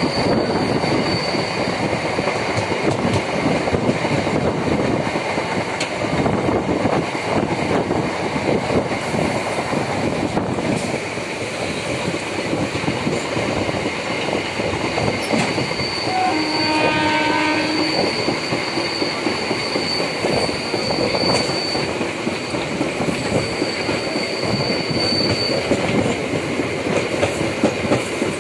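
MEMU electric passenger train running at speed, heard from an open window: a steady rumble and rattle of wheels on the rails, with a thin high whine that comes and goes. Just past the middle, a horn sounds once for about a second and a half.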